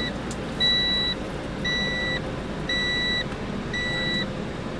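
Electronic warning beeps: four even high-pitched beeps, each about half a second long, about one a second, over a steady low rumble of machinery.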